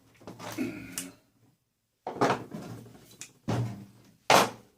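A series of clanks and knocks as pieces of scrap are handled and dropped while an appliance is stripped, with a short pause in the middle and several sharp hits toward the end.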